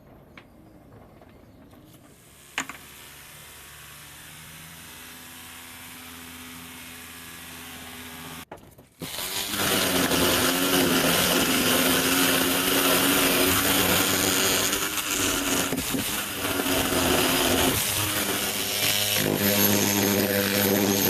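Electric power tool with a steady motor hum. A click comes about two and a half seconds in; after a brief break near nine seconds it runs much louder and rougher, with a steady hum under a harsh hiss.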